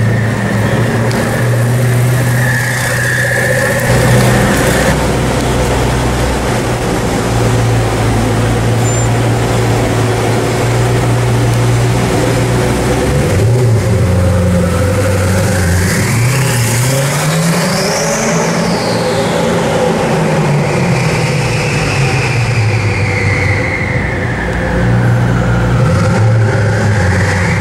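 Koenigsegg Agera R's twin-turbo V8 running steadily at low revs, then revving up to a peak about two-thirds of the way through and falling back, and climbing again near the end.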